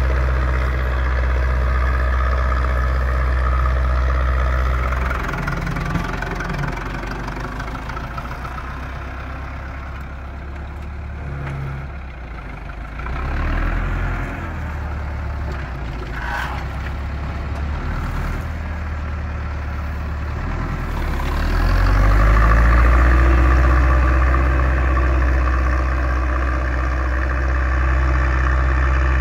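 Zetor 6245's four-cylinder diesel engine running while pulling a three-furrow reversible plow. Its note drops about five seconds in, stays lower and quieter for a while, then picks up again and grows louder about 22 seconds in.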